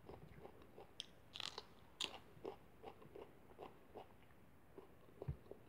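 Quiet close-up eating sounds: a person chewing and biting food taken by hand, with scattered soft mouth clicks and small crunches. A low thump a little over five seconds in.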